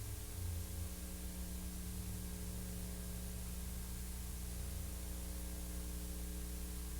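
Steady hiss with a low electrical hum underneath, unchanging throughout; no other sound.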